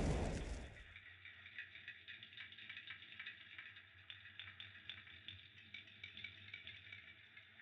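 A loud rushing burst of flame fades out over the first second, leaving a fire crackling faintly with many small irregular pops and ticks.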